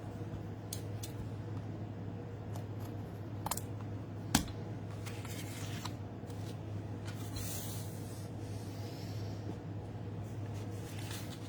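Card stock being cut down and handled, with scattered small clicks, one sharper click a little over four seconds in, and soft scraping stretches of the blade through the paper, over a steady low hum.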